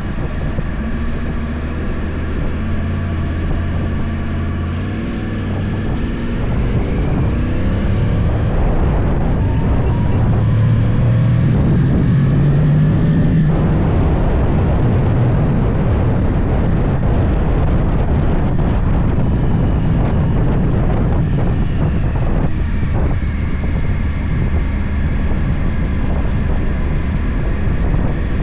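Yamaha YZF-R1 crossplane inline-four with a full Akrapovič exhaust under way, heard from on board. It starts out steady, then the engine note climbs in pitch for several seconds and cuts off sharply about halfway through, then runs on steadily.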